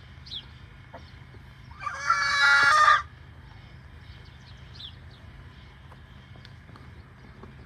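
A rooster crows once, loud, for about a second, starting about two seconds in.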